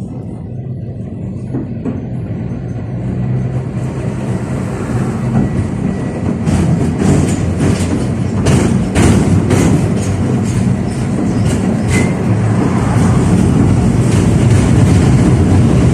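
Tatra KTM-5 type tram (71-605A) pulling away and gathering speed, its running noise growing steadily louder. From about six seconds in, the wheels give a run of sharp clicks and knocks on the track.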